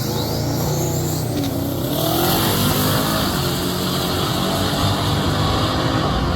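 Drag race car engine at high revs. Its pitch climbs in the first second, then it runs loud and steady with a hiss above it.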